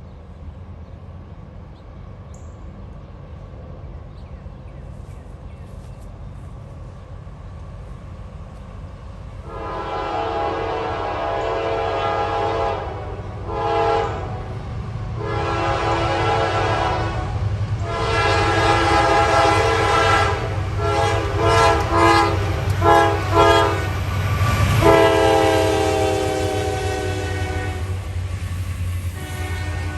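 Diesel freight locomotive approaching with a low engine rumble, then sounding its air horn from about a third of the way in: several long blasts and a run of short ones, the final long blast dropping in pitch as the locomotive passes.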